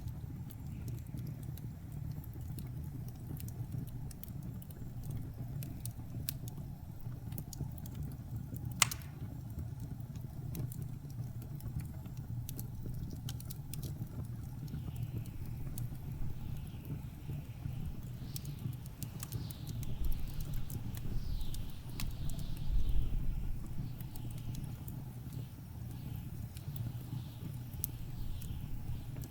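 Wood fire crackling with scattered sharp pops, one loud pop about nine seconds in, over a steady low rumble of blizzard wind. From about halfway, whistling wind gusts rise and fall, with heavier gusts swelling near the end.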